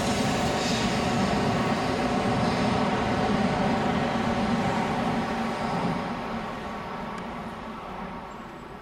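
Shinkansen train accelerating out of the station past the platform, a loud steady rushing run that begins to fade about six seconds in as the last cars clear the platform.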